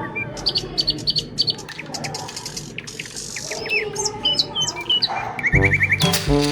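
Birds chirping: rapid repeated chirps and short falling whistles, with music coming back in near the end.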